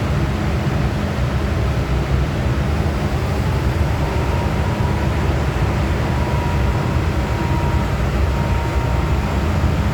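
MTR M-Train electric multiple unit heard from on board while running: a steady, loud low rumble of wheels and running gear. A thin steady whine joins it about four seconds in and fades out near the end.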